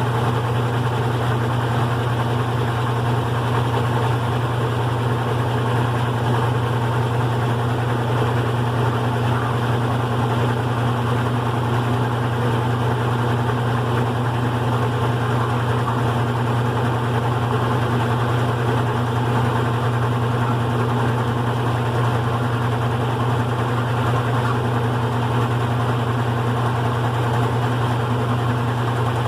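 GE Profile top-load washing machine running on its single-speed motor, a steady, unbroken low hum with no pauses.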